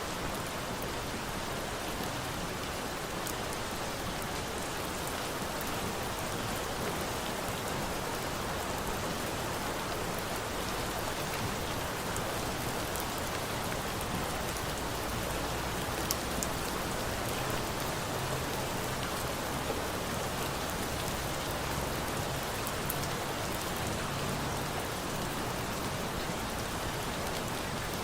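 Steady rain falling, layered with a campfire whose few sharp pops stand out, the clearest about halfway through.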